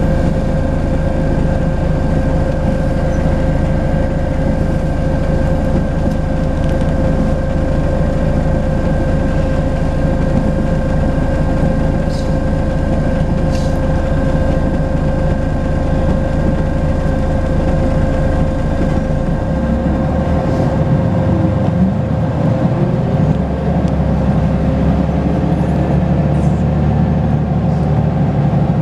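Volvo B10BLE bus running at steady speed, its engine drone carrying a constant turbo whistle. About two-thirds of the way through, the engine note shifts and settles at a new pitch.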